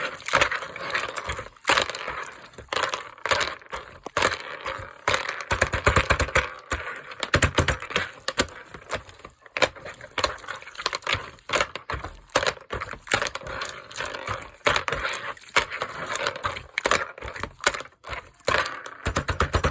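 Crunchy slime being squeezed and kneaded by hand, giving dense, irregular crackling and popping clicks with occasional soft low squishes.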